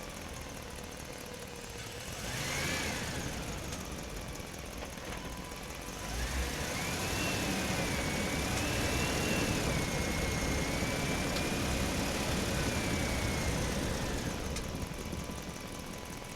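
Small motor of a mini toy tractor whining, first briefly with a rise and fall in pitch, then running louder for about eight seconds with a wavering pitch before dying away near the end.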